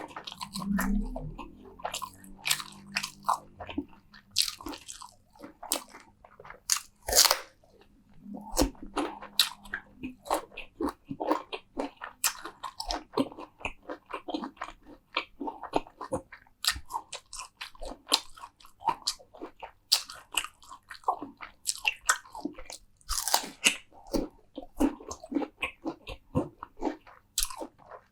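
Close-miked eating: crunchy bites and chewing, a dense run of sharp, irregular crunches and mouth clicks.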